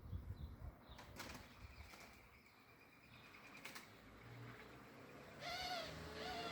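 Pigeons flapping and fluttering their wings, faint, with a couple of sharp clicks. A short pitched call comes near the end.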